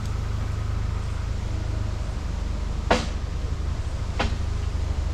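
Wind buffeting the microphone as a steady low rumble, with two sharp clicks, one about three seconds in and one just over a second later.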